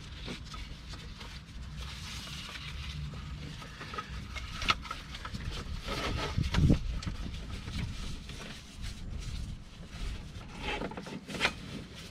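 A rubber drive belt being worked off an engine's pulleys by hand: rubbing and scraping, with a few sharp clicks and knocks, the loudest about two-thirds of the way through.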